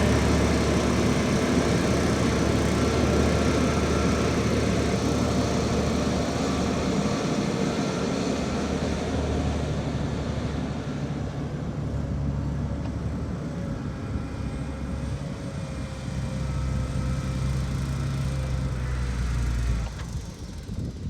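Heavy diesel engine of earthmoving machinery running under load, its low note stepping up and down a few times, then dropping off sharply about a second before the end.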